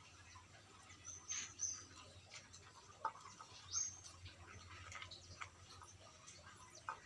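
Faint scattered clicks and crunches of dogs chewing quail, with a few high, short bird chirps, about a second in and again near four seconds.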